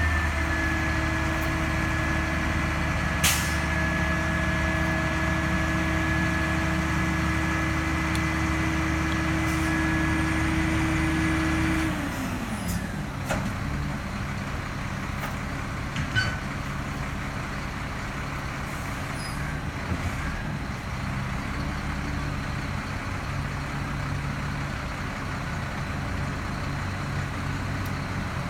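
Garbage truck's diesel engine held at raised revs, then dropping back to a lower idle about twelve seconds in. A sharp metal clank comes about three seconds in, and lighter knocks follow later.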